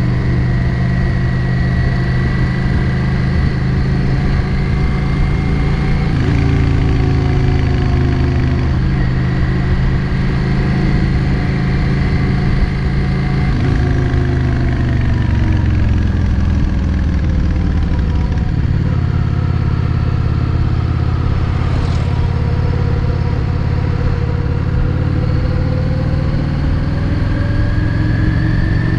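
Yamaha XVS 650 Drag Star's air-cooled V-twin engine running while the motorcycle is ridden on the road. Its pitch rises and falls with the throttle and changes abruptly about six and thirteen seconds in.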